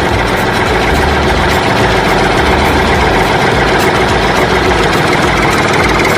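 An engine idling steadily, loud and even, with a regular fast pulse.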